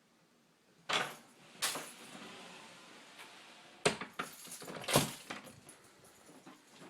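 Closet door and its hardware being handled: a few sharp clicks and knocks with metallic clinks and rattles, the loudest about four and five seconds in.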